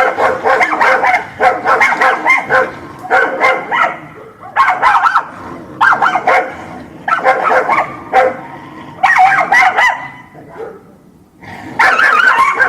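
Dog barking in quick runs of repeated barks with short pauses between them. There is a longer pause about ten seconds in, then the barking starts again.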